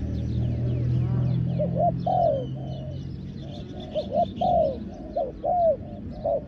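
Spotted doves cooing over and over, each phrase a couple of short notes followed by a longer arched, falling coo. Small birds chirp faintly higher up, and a low steady hum fades out about halfway through.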